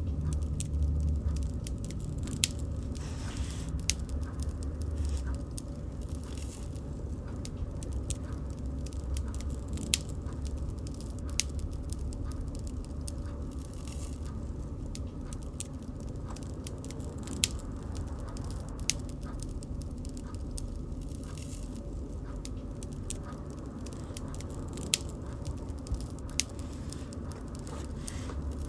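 Wood fire crackling: irregular sharp snaps and a few louder pops over a steady low rumble of burning.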